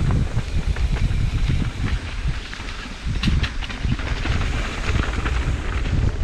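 Wind buffeting the microphone of a moving rider's camera: a loud, steady low rumble with scattered light knocks and rattles.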